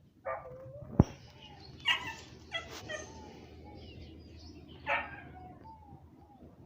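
A dog barking, about four separate barks spread across a few seconds, with a single sharp click about a second in.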